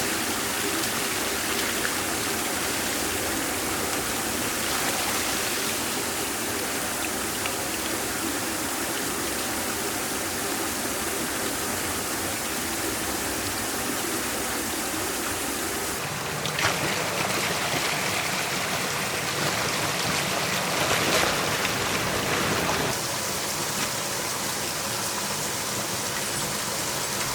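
Water rushing steadily out of a microhydro penstock pipe as it is flushed to clear debris. The flow sounds fuller and heavier for several seconds about two-thirds of the way in.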